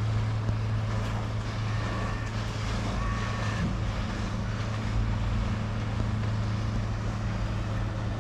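Outboard motor of a small fishing boat running under way at a steady speed, a constant low hum, with wind and water rushing past.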